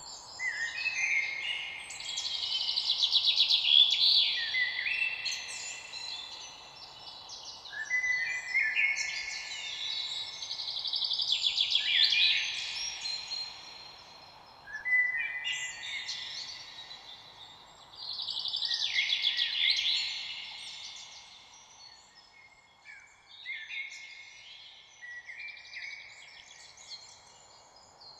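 Songbirds singing, several overlapping chirping and trilling phrases that swell and fade in bouts every few seconds, over a faint steady background hiss.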